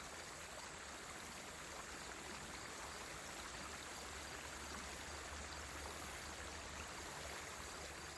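Steady flowing water of a stream, a continuous even rush.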